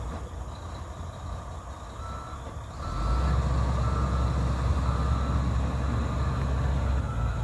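Heavy diesel mining machine running, its engine growing louder about three seconds in. A reversing alarm beeps about once a second from about two seconds in.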